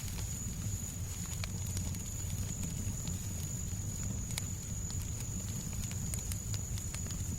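Fireplace crackling: scattered sharp pops and snaps over a steady low rumble, with a thin steady high tone in the background.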